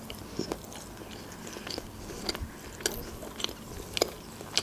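A person chewing a mouthful of fried sushi roll, with crisp, irregular crunches about every half second.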